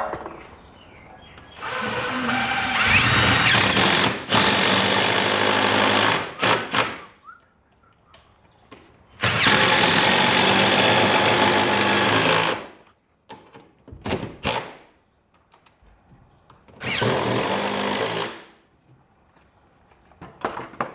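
Power drill running in three bursts, the first about four seconds with a brief break, the second about three seconds and the last short, with quiet gaps between: driving fasteners or drilling holes to mount the opener's metal bracket.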